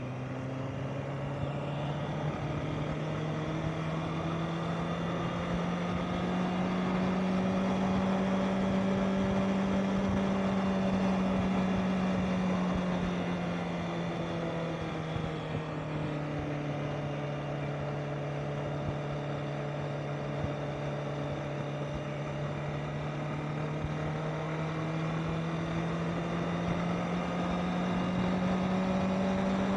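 Honda CBR650R inline-four engine running under way, its note climbing gradually, easing down about halfway through, then climbing again near the end as road speed changes.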